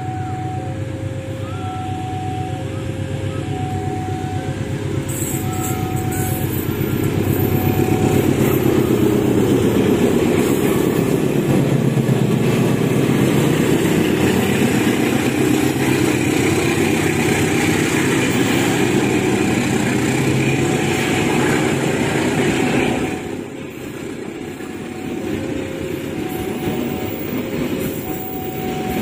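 A long passenger train hauled by a diesel-electric locomotive passes close by. The engine rumble swells and peaks as the locomotive goes past, then drops off suddenly, leaving the rolling clatter of the coaches' wheels on the rails. A level-crossing warning bell chimes in two alternating tones at the start and again near the end.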